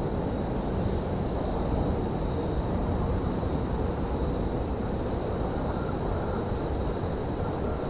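Steady low rumble of railyard ambience, even and unbroken, with a faint high steady whine over it.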